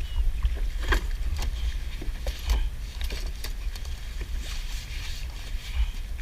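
Scattered sharp clicks and knocks of Dungeness crabs and trap gear being handled on a kayak, over a steady low rumble of wind on the microphone.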